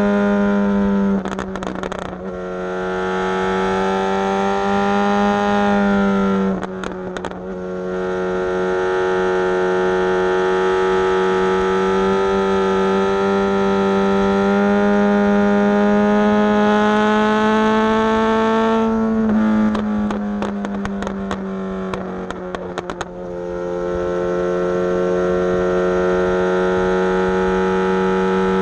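Suzuki GSX-S750's inline-four engine with a Coffman's aftermarket exhaust, running at steady high revs while riding. Three times, about a second in, around seven seconds in and for a few seconds near twenty seconds in, the engine note dips and sharp crackles come through the exhaust before it pulls steadily again.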